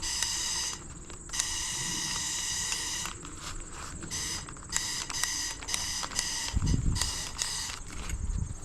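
Smoker-lighting torch being fired over and over without catching: bursts of a high buzzing tone, each up to about two seconds long, as the trigger is held and released. The igniter is not making a spark, so the torch fails to light.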